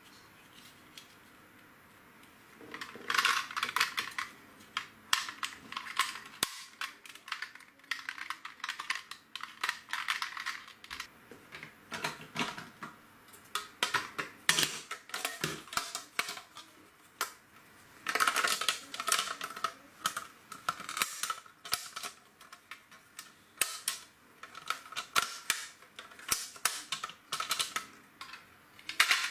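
Plastic LEGO bricks being handled: rapid, irregular clicking and rattling that starts about three seconds in and goes on in clusters.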